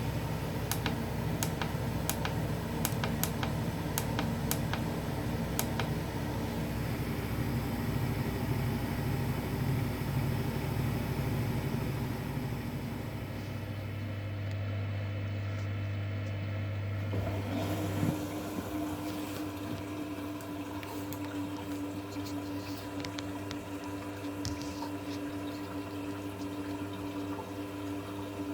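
2011 V-Zug Unimatic SL washing machine running a 40°C wash program, with water running into the drum. A few sharp ticks come in the first few seconds. About eighteen seconds in, the sound changes to a steadier hum that holds.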